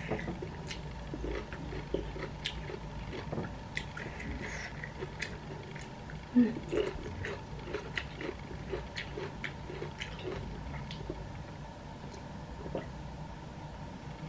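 A person chewing food close to the microphone: scattered small wet clicks and smacks of the mouth, a little louder about six seconds in.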